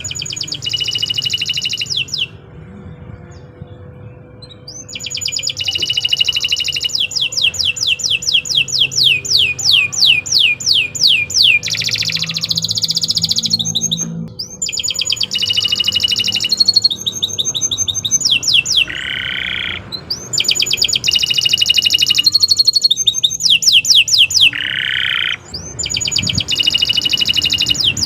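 Domestic canary singing a long, loud song of fast trills and rapidly repeated high notes, the phrases broken by brief pauses.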